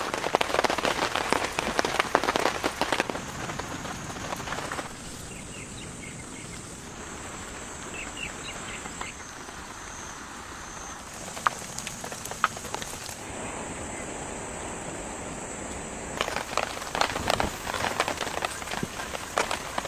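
Heavy rain pattering. About five seconds in it drops to a softer, steady hiss with a couple of sharp drip-like taps, then heavy pattering returns near the end.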